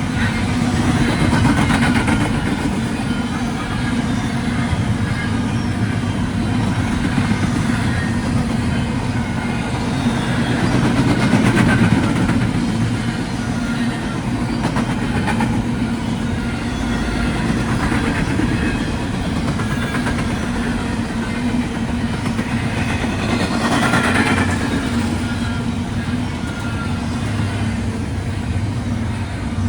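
BNSF double-stack container train rolling past: a steady rumble of freight car wheels on the rails, with faint thin squeals coming and going.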